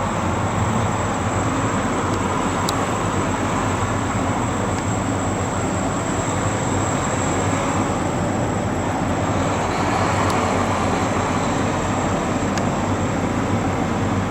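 Steady engine and traffic noise: a low idling hum under a broad rush that swells slightly about nine seconds in.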